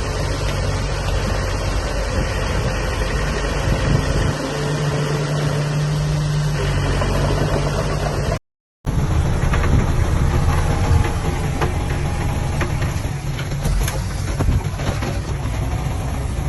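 Diesel engines of heavy earthmoving machinery running steadily, with a brief drop-out about eight seconds in. In the second half, scattered clanks and knocks sound over the engine.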